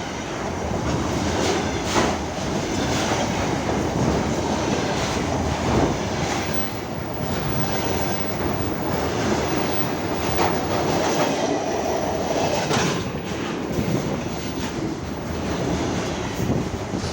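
Freight train rolling through at speed: a steady rumble of wagons with repeated clattering knocks as the wheels cross rail joints.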